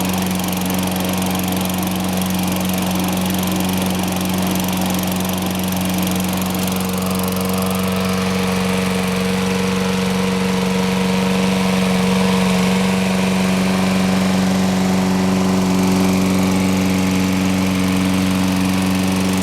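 Toro Personal Pace Recycler lawn mower's 6.5 HP Tecumseh four-stroke engine running steadily after a first-pull start, with an even, unchanging engine note.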